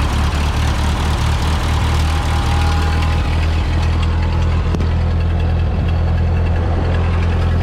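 Ford 2N tractor's four-cylinder flathead engine idling steadily, just started from cold after sitting for a long while.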